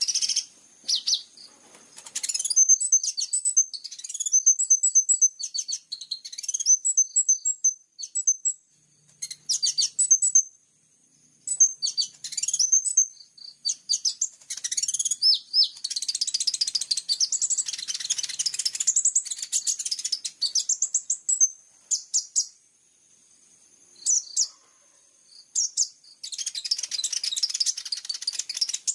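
A small songbird singing rapid high chirps and trills in short phrases with brief pauses. Two stretches of dense, fast twittering come about halfway through and again near the end. This is birdsong of the kind used as fill-in song material for training sunbirds.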